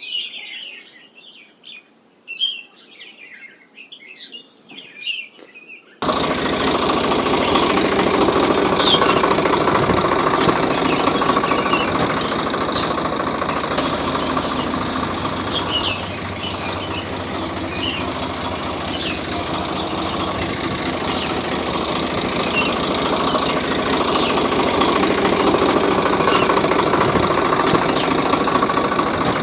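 Birds chirping for about six seconds. Then a motor suddenly starts up loud and keeps running steadily with a rattling drone, with faint chirps still on top. This is the home-made mini tractor's motor driving it.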